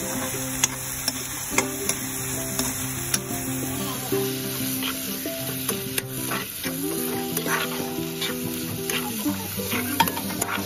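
Chicken pieces sizzling in hot oil and masala while a spatula stirs them in the pan, with sharp scrapes and knocks of the spatula against the metal now and then. Held background music notes sound underneath.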